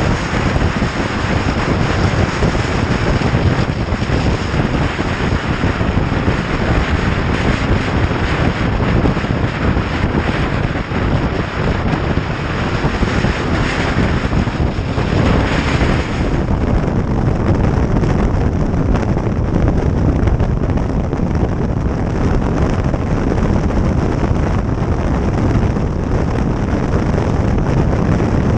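Wind buffeting the microphone of a motorcycle moving at speed: a loud, steady rushing noise, its hiss dulling slightly about halfway through.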